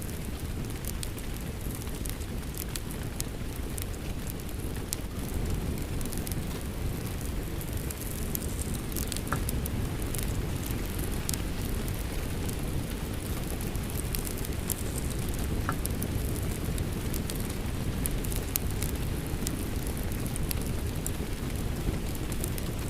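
Steady rain together with a crackling wood fire, sharp pops scattered throughout over a constant low rushing.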